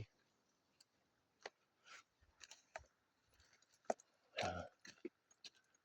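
Faint footsteps on a trail: scattered soft clicks and crunches about two a second, with one louder short scuff about four and a half seconds in.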